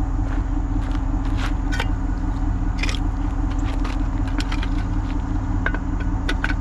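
Tow truck's engine running steadily, with scattered light clicks and rattles over it.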